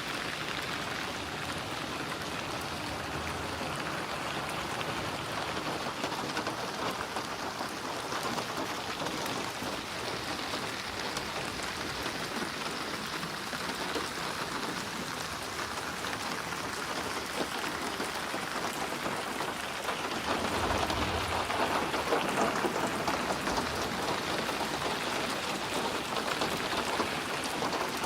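Steady heavy rain falling, an even hiss of drops. About twenty seconds in, a low rumble of thunder rolls under it for a few seconds.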